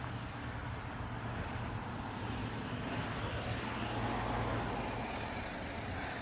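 Road traffic noise with a steady low hum, swelling about four seconds in as a vehicle goes by.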